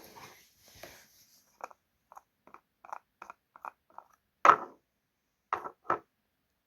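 Items being handled and set down on a hard surface while stocking a mini fridge: a run of light taps and clicks, then a louder knock about four and a half seconds in and two more shortly before the end.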